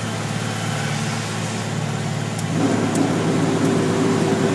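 Diesel engine of a fully loaded garbage truck, heard from inside the cab, pulling hard and slowly up a long hill grade. About two and a half seconds in, the drone grows louder and a steady higher tone joins it.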